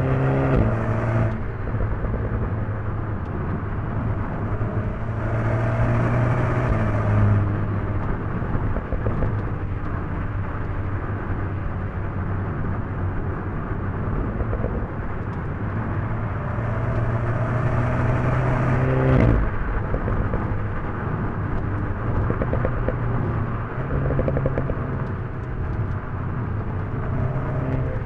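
2020 Alpine A110 S's turbocharged 1.8-litre four-cylinder engine under way, its pitch rising and falling as it pulls up through the revs and eases off again, with a single sharp crack about two-thirds of the way through.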